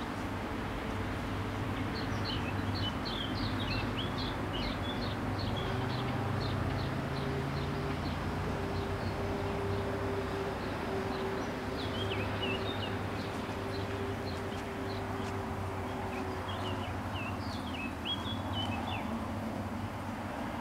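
Small birds chirping in three quick runs of short, high calls over a steady low hum.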